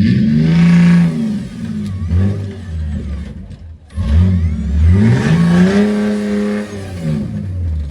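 Off-road 4x4 engine revved hard twice: the pitch climbs and falls in the first second or so, then climbs again from about four and a half seconds in, holds high and drops near the end.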